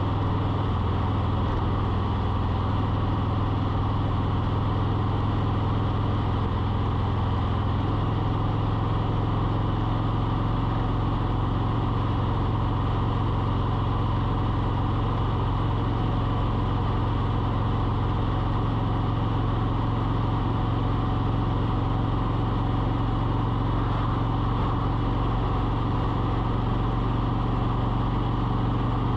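Steady low engine hum at a constant speed, with no changes in pitch or level.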